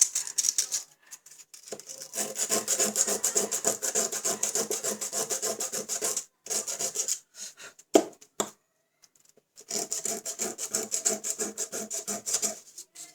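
Rapid back-and-forth scraping of a blade against metal, removing rust from a mixer grinder jar part. It goes in three runs, broken by short pauses about six seconds in and again around nine seconds.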